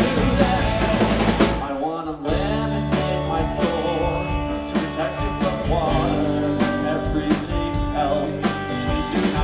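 Live rock band playing an instrumental passage with drum kit and guitars. About two seconds in the band stops for a moment, then comes back in together.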